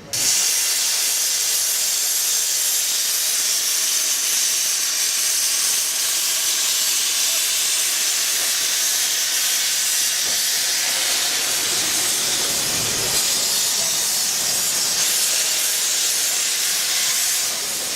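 Steam locomotive blowing off steam: a loud, steady hiss that holds without a break.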